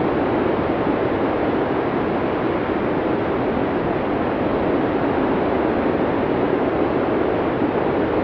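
Arctic blizzard sound effect from the classic Cinesound library: a steady rush of wind noise that neither gusts nor drops away.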